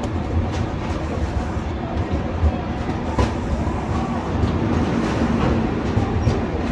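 Indian Railways passenger train arriving at a station, its coaches rolling along the rails with a steady low rumble. A few sharp clicks sound over it, the loudest about three seconds in.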